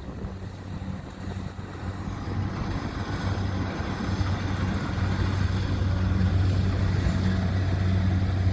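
Kubota DC70 combine harvester's diesel engine droning under heavy load, labouring through sticky, waterlogged paddy soil. The drone swells over the first couple of seconds and then holds steady.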